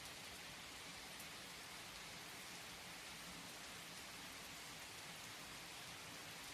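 Steady, soft rainfall, an even hiss of rain with no distinct drops or thunder claps.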